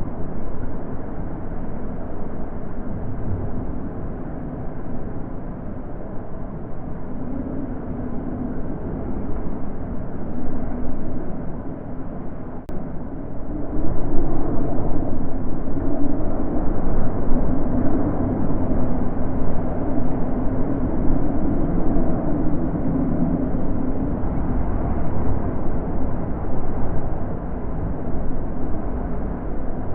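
Wind blowing steadily in gusts, a low rushing that strengthens about halfway through.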